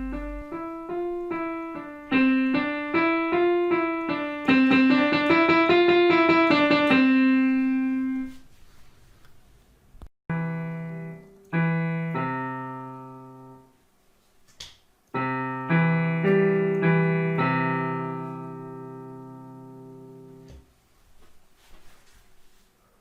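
Donner DEP-20 digital piano playing a piano voice: a quick run of notes moving up and down for about eight seconds, then after a pause several chords struck and held, dying away slowly.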